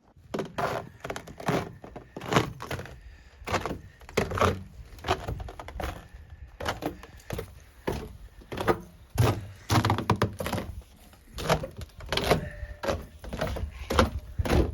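Footsteps walking: a steady run of heavy, irregular steps, roughly one or two a second.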